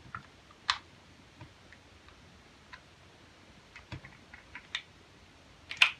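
Scattered small clicks and taps of the Bond Arms derringer's parts being handled as its grip is taken off, with a sharper click about a second in and the loudest one near the end.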